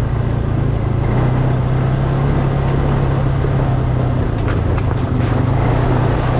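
ATV engine running at a steady pitch, with a constant rushing noise over it and a few faint ticks near the end.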